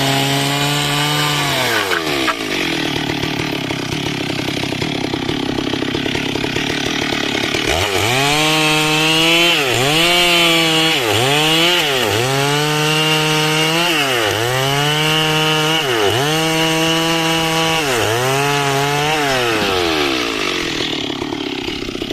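Two-stroke chainsaw cutting dry timber. The engine runs at high revs, and for most of the second half it repeatedly dips in pitch and climbs back, a little more often than once a second, as the chain is worked through the wood. Near the end it drops back down.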